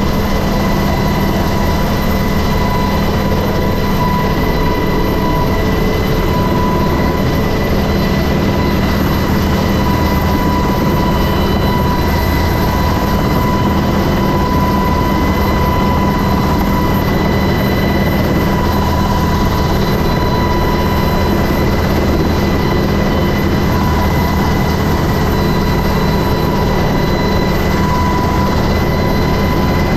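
Helicopter running close by, a steady loud rotor and engine noise with a high turbine whine.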